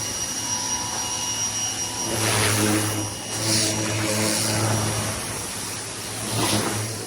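Ryobi 1600 psi electric pressure washer running as it rinses: a motor-and-pump hum that drops away at first and comes back about two seconds in, with bursts of spray hiss as the water jet sweeps the car.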